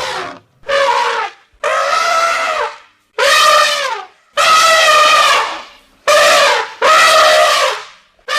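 Elephants trumpeting: a run of about seven loud, separate trumpet calls, each under a second and a half, with brief gaps between them.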